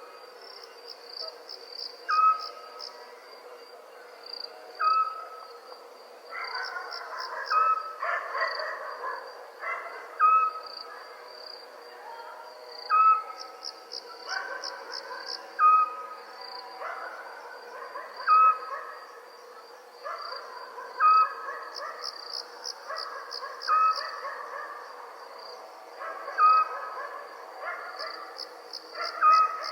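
Crickets chirping steadily in pulsing trills, with a short owl call repeating about every two and a half seconds, eleven times, as the loudest sound.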